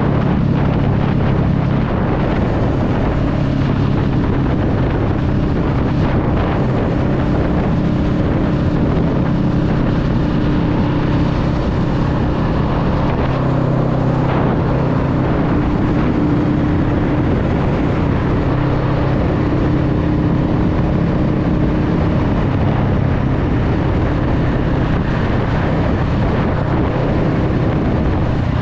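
Honda Rebel 500's parallel-twin engine running steadily while riding at a constant pace, with wind noise on the microphone.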